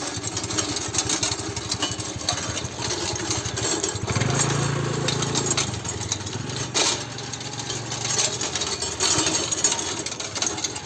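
Small engine of a single-wheel hand tractor running, with a rapid low firing pulse and mechanical rattle. About four seconds in its note rises and steadies for a couple of seconds, then eases back.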